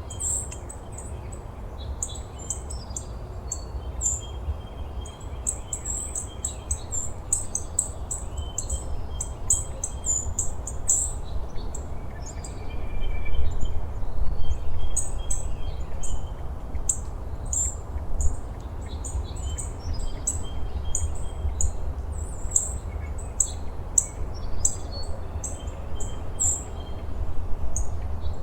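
Small birds chirping: many short, high-pitched chirps repeated throughout, over a steady low rumble.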